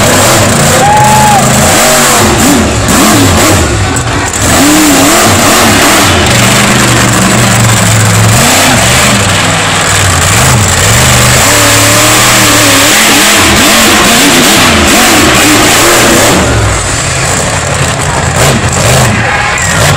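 Monster truck engine revving hard, its pitch rising and falling again and again over a dense, very loud roar.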